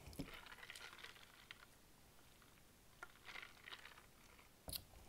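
Faint chewing of thin, crispy pizza crust: soft crackly crunches in two short spells, with one sharp click near the end.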